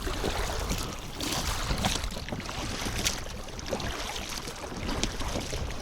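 Wind buffeting the microphone and water splashing around a small boat under way on choppy water, with a few short splashes or knocks.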